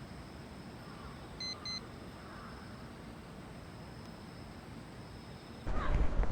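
Two short electronic beeps in quick succession over a steady low background hum. Much louder rushing noise cuts in suddenly near the end.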